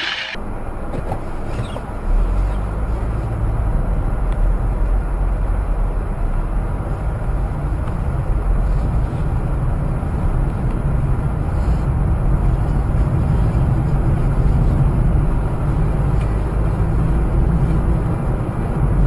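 Truck engine pulling hard under load, a loud, steady low rumble that steps up about two seconds in and holds without a break.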